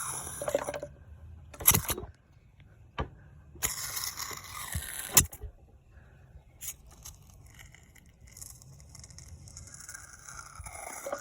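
Scraping and clattering of metal engine parts and hand tools being handled during reassembly, in irregular bursts with several sharp clicks, then a fainter hissy scraping near the end.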